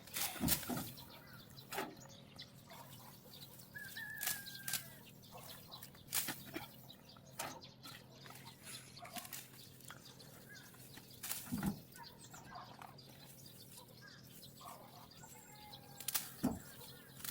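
Faint outdoor background with scattered sharp clicks and knocks and a few short bird chirps.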